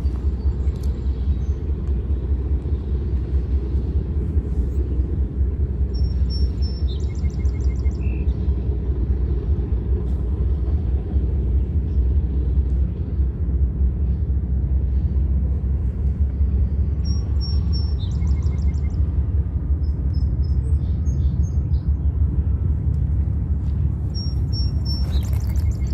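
Steady low rumble throughout, with short bird chirps a few times over it.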